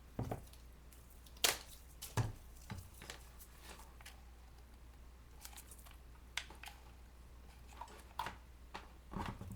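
Scattered light taps, clicks and rustles of craft materials being handled, a few sharper clicks standing out, over a low steady hum.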